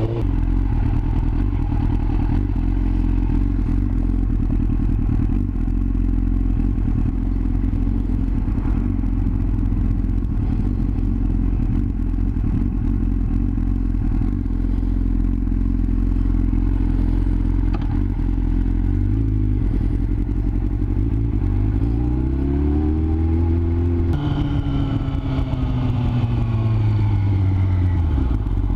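Yamaha R6 inline-four engine running at low revs, misfiring, the fault traced to ignition coils that were not pressed fully home. The revs hold low for most of the time, climb for a few seconds near the end, change abruptly, then fall away again.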